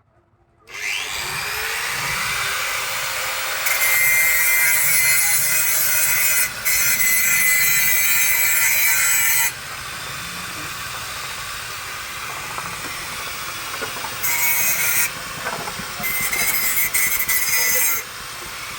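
An electric power tool starts running with a steady whine and cuts into wood. It gets louder while biting into the wood: one long stretch starting about four seconds in and lasting some six seconds, then two shorter ones near the end.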